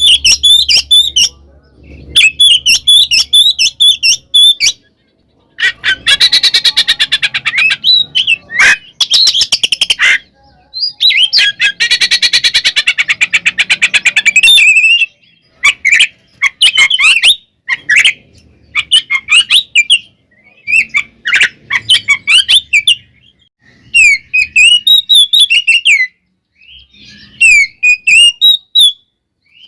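Oriental magpie-robin (kacer) singing loudly in its agitated, fighting-mood song: varied whistled phrases broken by short pauses, with two long runs of rapidly repeated harsh notes in the first half.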